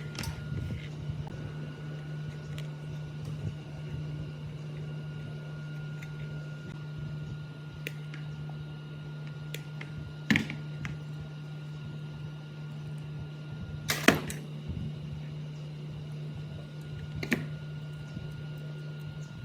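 Steady low hum with a faint high whine, broken by a few sharp knocks, the loudest about fourteen seconds in.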